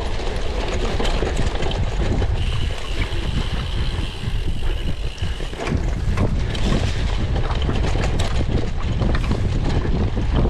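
Wind buffeting the microphone while riding a cyclocross bike at race pace, with scattered sharp clicks and rattles from the bike over rough ground.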